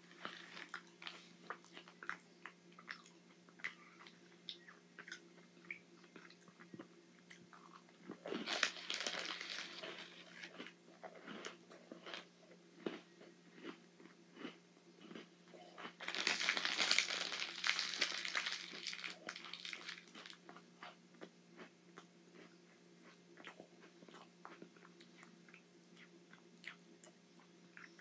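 Close-up crunching and chewing of a chocolate sandwich cookie: a run of small crisp cracks, with two louder stretches of crunching.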